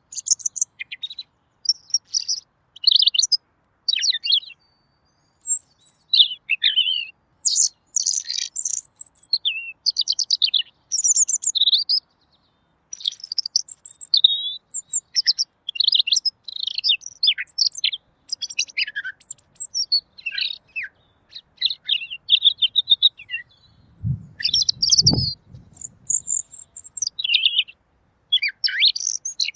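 Red-billed leiothrix (Pekin robin) singing clearly: a continuous run of quick, varied chirping and warbling phrases with short pauses between them. A low thud comes near the end.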